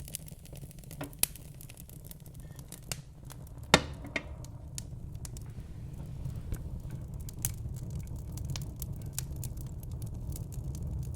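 Wood fire crackling in a fireplace: irregular sharp pops and snaps over a low, steady rumble of flames, with one loud pop about a third of the way in.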